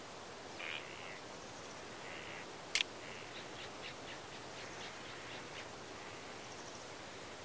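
Birds calling outdoors: a few short harsh calls, a sharp click about three seconds in, then a quick run of short ticking notes and faint high chirps over a steady outdoor hiss.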